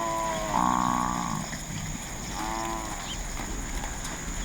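African buffalo calling: three drawn-out bawling calls, about a second in, then again near the middle.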